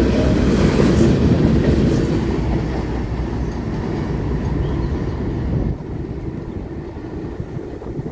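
CSX freight train's covered coil steel cars rolling past on the rails. The noise fades as the end of the train pulls away and drops off sharply near the end.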